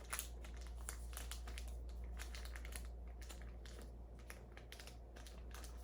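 Crinkling and crackling of an old adhesive bandage dressing being peeled off the skin by gloved hands, a string of small irregular crackles.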